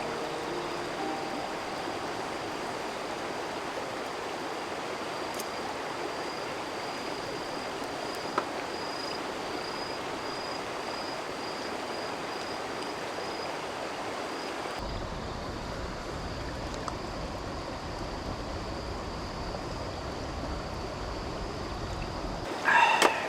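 Steady rushing of a flowing stream, an even wash of water noise, with a faint high-pitched pulsing tone over it for the first half. About halfway through the water sound shifts abruptly to a deeper, fuller rush.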